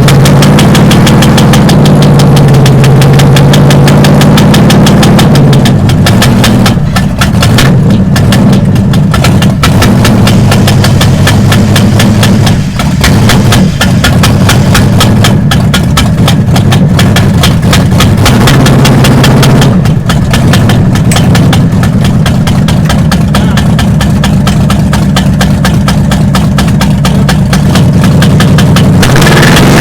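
Mega mud truck's high-horsepower engine running loud with a rapid, even exhaust pulse, heard from inside the cab.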